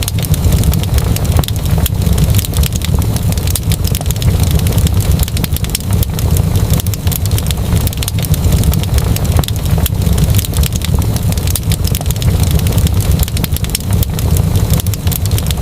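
Wood fire crackling: many irregular pops and snaps over a steady low rumble.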